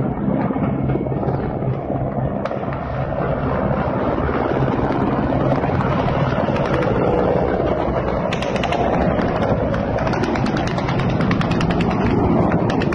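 A helicopter flying low: a steady rumble of engine and rotor, with a rapid, even chopping of the blades coming through clearer from about eight seconds in.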